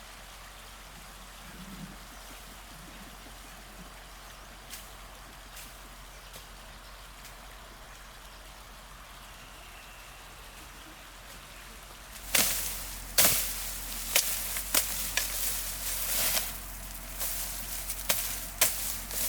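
Steady hiss of flowing water. About two-thirds of the way through, a loud run of sharp, irregular knocks begins, like hard blows on wood.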